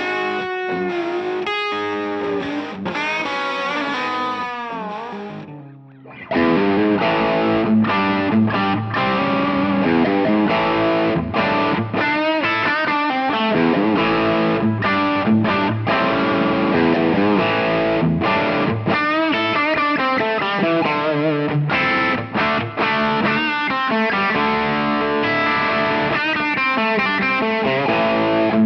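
Electric guitar played through the SSD 97 Drive overdrive pedal, with a driven, distorted tone. It opens with a single-note lead line full of string bends and vibrato, fades briefly, then about six seconds in turns to louder, denser chord riffing.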